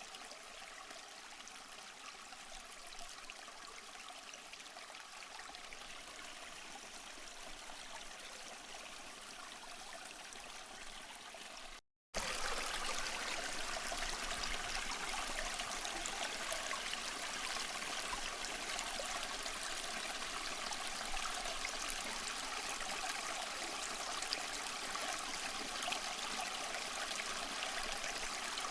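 Steady rush of running water at a waterfall. It drops out for a moment about twelve seconds in and comes back louder.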